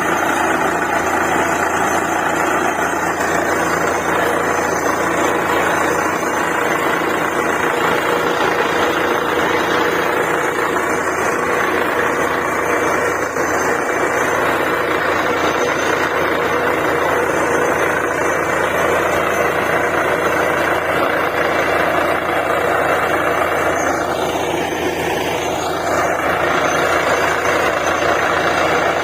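Borewell drilling rig running steadily under load, a dense continuous engine-and-machinery noise. About three-quarters of the way through, a higher tone briefly dips and rises in pitch.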